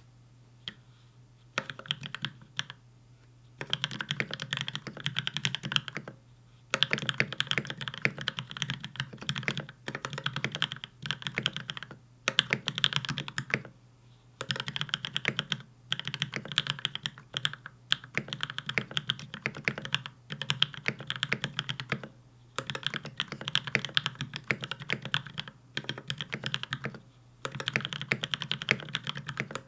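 Typing on a Space65 mechanical keyboard with DAGK PBT Cherry-profile keycaps: fast runs of key clacks a few seconds long, broken by brief pauses.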